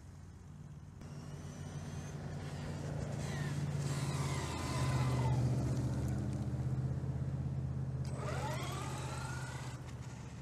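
A vehicle running, with a steady low hum that swells to its loudest about halfway through and then fades. Over it a whine glides down in pitch, and near the end rises again.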